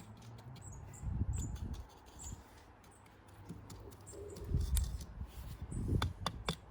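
Small garden birds chirping, short high chirps every half second or so, over low rumbling bumps against the microphone, with a few sharp clicks near the end.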